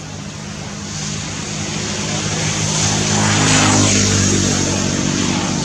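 A motor vehicle's engine passing close by, growing louder to a peak about three and a half seconds in, then easing off.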